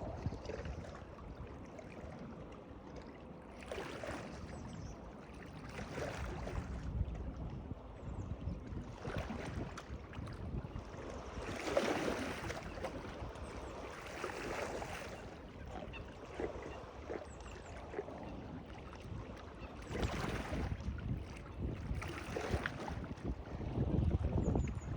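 Water sloshing and lapping in uneven surges every few seconds, with wind rumbling on the microphone.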